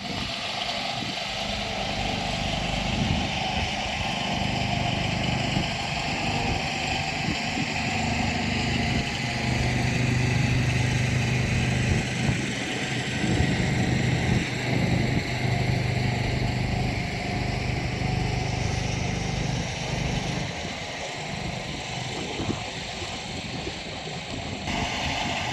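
Engine of road-work machinery running steadily, its hum growing stronger through the middle and easing off after about twenty seconds.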